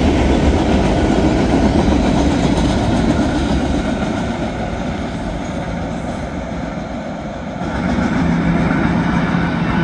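Freight cars of a BNSF manifest train rolling past, steel wheels running on the rails in a steady rumble. The noise eases in the middle and swells again near the end with a steady hum.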